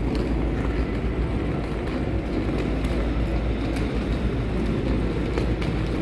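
Metra double-deck commuter train cars rolling past a station platform: a steady low rumble of wheels on rails, with a few faint ticks.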